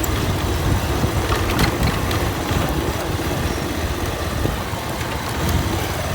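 Motorcycle engine running at low speed over a rough dirt track, a steady rumble with a few brief knocks from the ride about a second and a half in.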